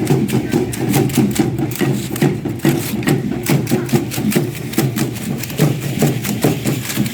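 Matachines dancers keeping a fast, steady rhythm: a dense clatter of stamping steps and rattles, several sharp beats a second.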